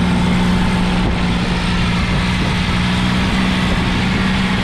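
Fishing boat's engine running steadily at a constant pitch, a low, even drone.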